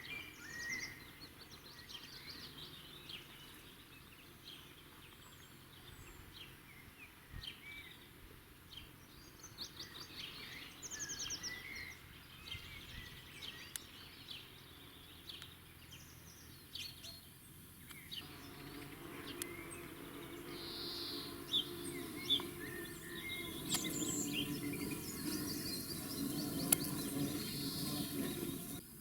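Wild birds singing outdoors: many short chirps and quick trills from several birds. About two-thirds of the way in, a low steady noise joins under the birdsong.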